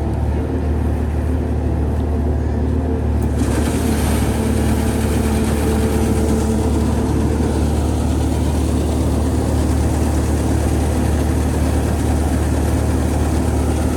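An engine running steadily. About three and a half seconds in, a louder rushing noise joins it and continues.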